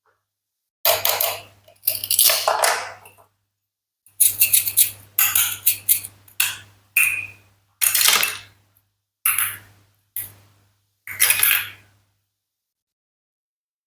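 Toy fruit and vegetables of plastic and wood being cut and clattering: about a dozen short clinking, clattering sounds, each starting sharply and dying away, with silence between.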